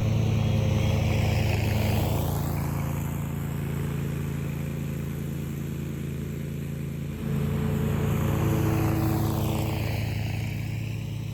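A Bad Boy Rogue zero-turn mower's 1,000cc Kawasaki V-twin engine running steadily at mowing speed through long grass, growing louder about seven seconds in.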